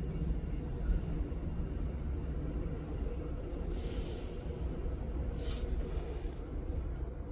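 Jeweler's soldering torch flame running with a steady low rumble while heating solder on a gold ring, with two short louder hisses near the middle.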